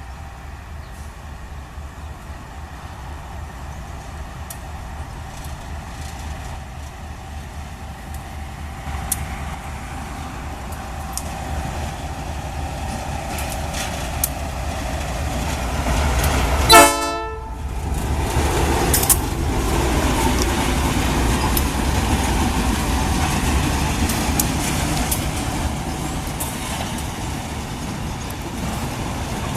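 Diesel freight train approaching, its low rumble growing steadily louder, with one short horn blast a little past halfway, then the louder rumble and rattle of the train passing close by.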